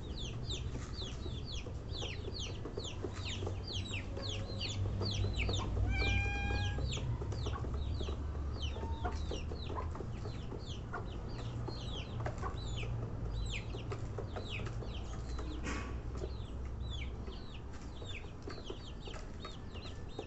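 Baby chicks peeping continuously, a stream of short falling peeps, several a second, over a low steady rumble.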